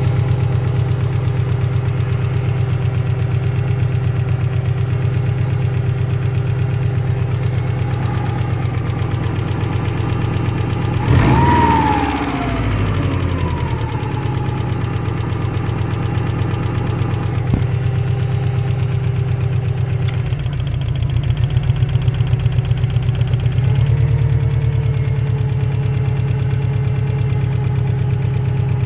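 Car engine idling from a cold start with a steady rhythmic knock, a cold-engine knock. About eleven seconds in it is briefly revved and the pitch falls back to idle.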